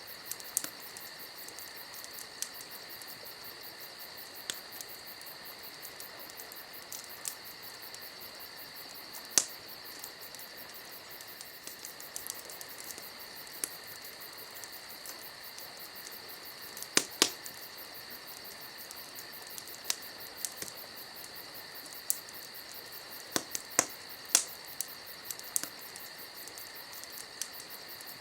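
Campfire crackling, with sharp irregular pops, the loudest about 9 seconds in, twice around 17 seconds and a cluster around 24 seconds. Underneath runs a steady high-pitched trill of insects.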